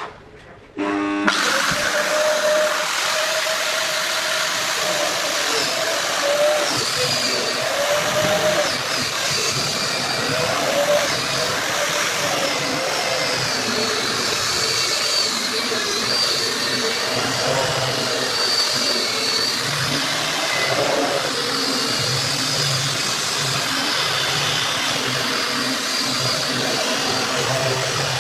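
Angle grinder switched on about a second in and running steadily, its whine wavering in pitch.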